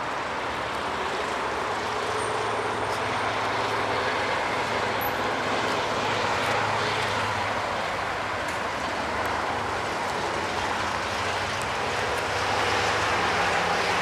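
Steady motor-vehicle noise: a continuous hum and rush that slowly swells and swells again near the end.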